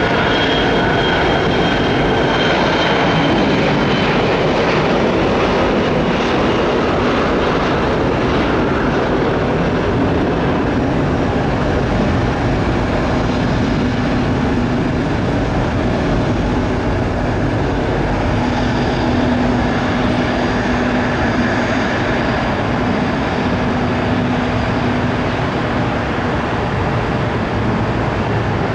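Gulfstream G-IV business jet's two Rolls-Royce Tay turbofan engines running, a loud, steady jet noise with a faint high whine that fades over the first few seconds.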